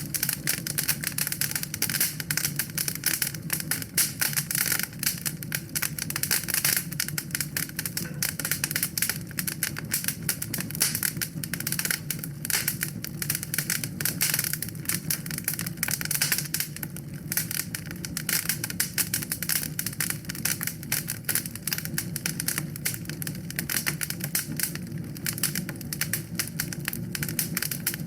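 Wood fire burning in a fireplace, crackling densely and irregularly over a low steady rumble of the flames.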